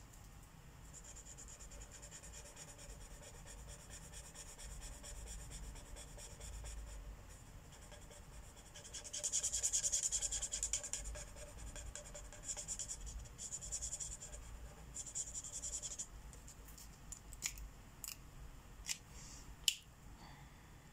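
Felt-tip marker scribbling rapidly back and forth on paper as a colouring-book mandala is filled in, the strokes loudest about halfway through. They stop, and a few sharp clicks follow near the end.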